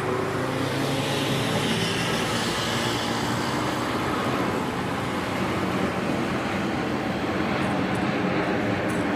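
Aircraft engines running, a steady, loud noise with no break.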